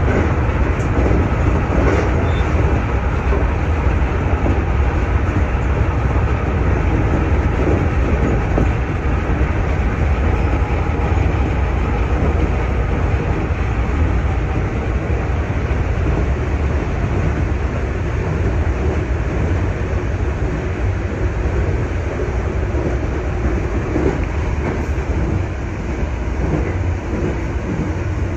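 JR West 225-series electric train running, a steady low rumble of wheels on rail heard from inside the car.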